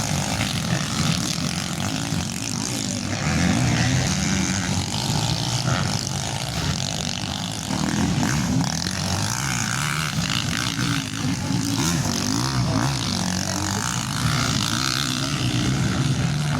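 Motocross dirt bike engines revving on the track, their buzzing pitch rising and falling with the throttle.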